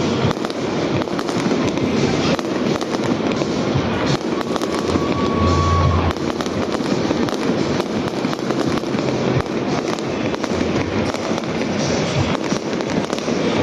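Aerial fireworks display: a dense, continuous run of crackling shell bursts and bangs.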